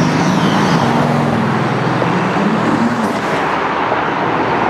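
Mercedes-AMG GT S's twin-turbo V8 running at low speed in slow street traffic, with a short rise in revs about halfway through.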